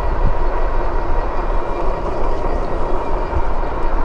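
Steady wind rush on the microphone and rolling tyre noise from a Lectric e-bike under way, with a faint steady whine from the bike's hub motor.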